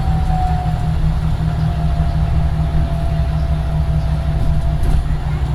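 Scania Omnidekka double-decker bus engine running under way: a steady low drone with a thin whine above it that slowly falls in pitch.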